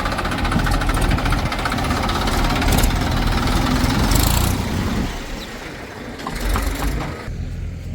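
Diesel engine of heavy machinery running hard, easing off about five seconds in. A steadier, lower engine hum takes over just before the end.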